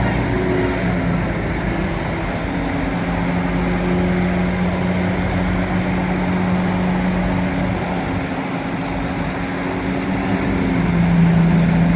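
Bulldozer's diesel engine running steadily. Its pitch drops a little and it grows slightly louder near the end.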